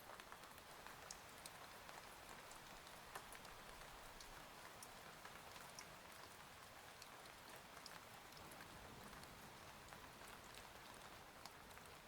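Faint steady rain, with scattered small taps of individual drops.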